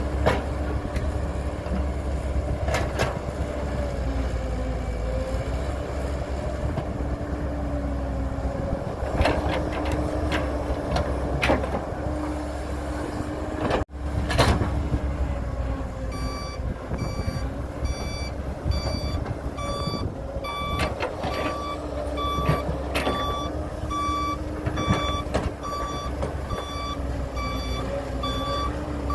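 Heavy construction machinery's engine running steadily, with several loud clanks. From about halfway through, a reversing alarm beeps steadily about twice a second as a machine backs up.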